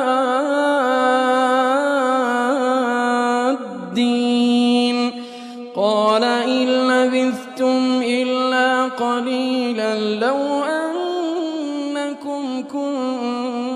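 A male reciter chanting the Quran in a melodic tajweed style, holding long ornamented notes. The voice stops for brief breaths about four, five and ten seconds in.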